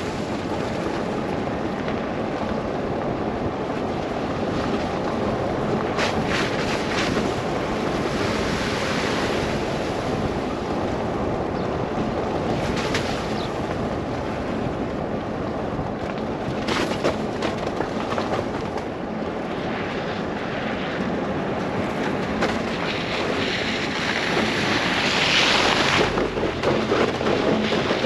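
Steady rushing noise of wind and tyres from a car driving through a snow blizzard, with a few brief swishes, growing louder and hissier near the end.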